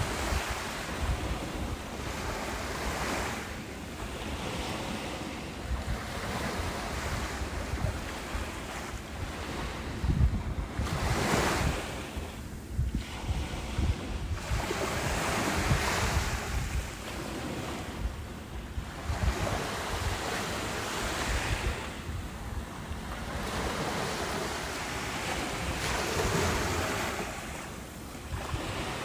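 Ocean waves breaking on a beach, the surf swelling and washing back every few seconds, over a low wind rumble on the microphone.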